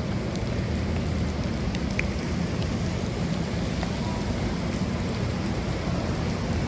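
Steady rain falling during a tropical storm, with a low rumble underneath and scattered faint ticks of drops.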